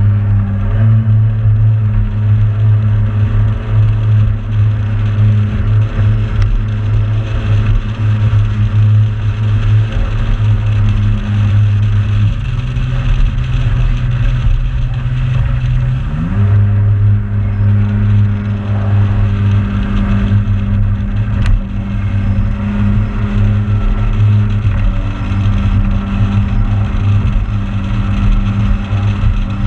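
Motorboat engine running at a steady speed, throttled back about twelve seconds in and brought back up about four seconds later, then easing off again at the very end.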